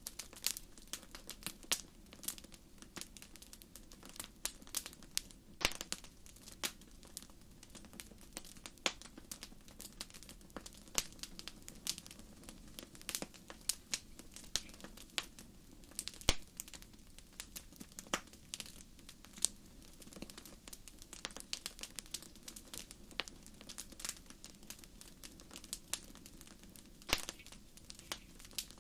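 Fire crackling in a fireplace: a constant scatter of irregular sharp pops and snaps over a soft, steady low rush of flame.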